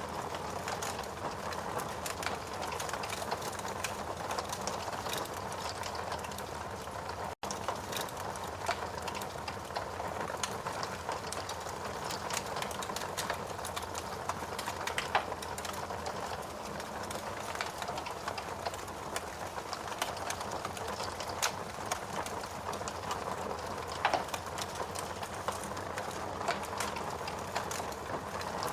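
Steady hiss of rain together with a wood fire crackling, with frequent sharp pops and snaps scattered throughout. The sound cuts out for a split second about seven seconds in.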